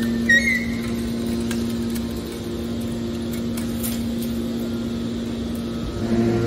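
Industrial machine running with a steady hum, a brief high squeal about a third of a second in.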